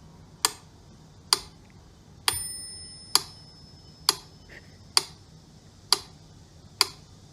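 Sharp, evenly spaced ticks a little faster than once a second, like a clock. A single bell-like ring sounds about two seconds in and fades over about a second.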